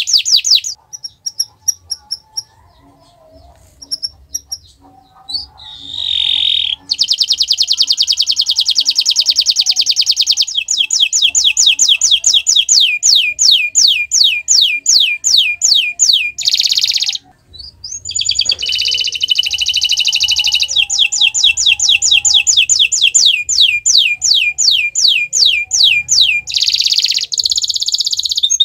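Domestic canary singing in long tours of rapidly repeated notes. Fast buzzing trills alternate with slower runs of falling notes at about five a second, broken by a pause of a few seconds near the start and a brief one partway through.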